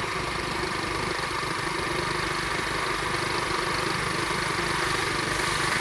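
Flywing pit bike's small single-cylinder four-stroke engine running steadily at low revs while being ridden, its level creeping up slightly toward the end.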